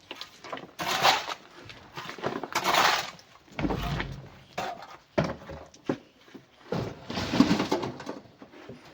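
Broken rock and coral clattering and crunching as it is loaded, in several separate bursts about a second long, with a heavy low thud about four seconds in.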